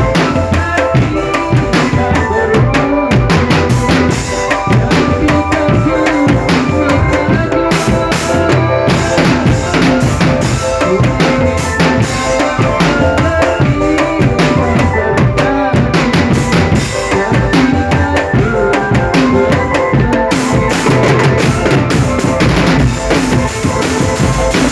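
Indonesian marching drum band playing: snare and bass drums beating a steady rhythm, with a melody over the drums.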